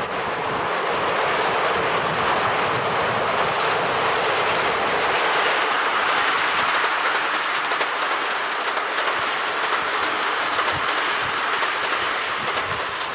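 KiHa 80 series diesel limited express train passing at speed, a steady loud rumble with rapid clicking of wheels over rail joints through the middle of the pass.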